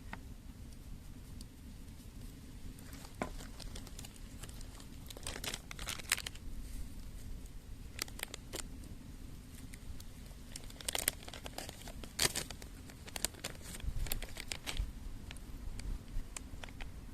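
Packaging crinkling and tearing in short, scattered bursts, with light clicks and taps between them.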